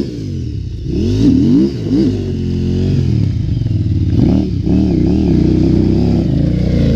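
Dirt bike engine revving up and down over and over, the throttle worked in repeated bursts.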